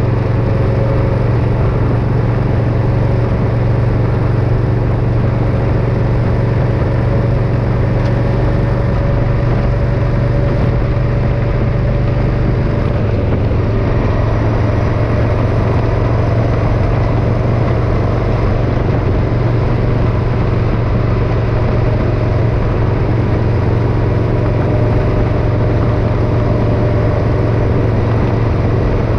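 Motorcycle engine running steadily while riding, its pitch creeping slowly upward with a small step up about halfway through.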